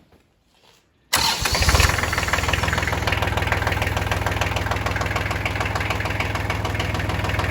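Tractor engine starting about a second in and settling into a steady idle, with a fast, even chugging pulse.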